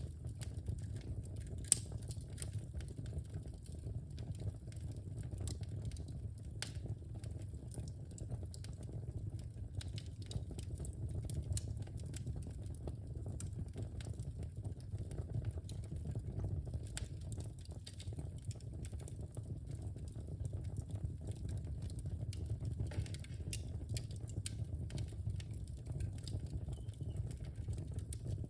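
Wood fire burning in a fireplace: a steady low rumble of flames with frequent small crackles and pops from the logs, one sharper pop just under two seconds in.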